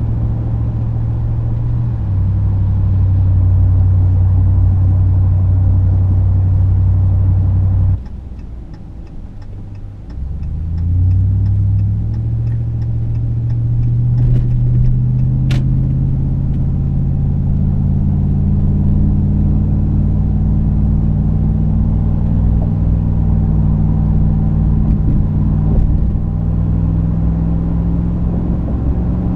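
Ram 2500's 6.4 Hemi V8 through a Magnaflow 19200 cat-back exhaust, heard from inside the cab while driving: a steady low exhaust drone. About eight seconds in the engine note drops away for a couple of seconds, then rises steadily in pitch as the truck accelerates. A faint regular ticking runs through the middle.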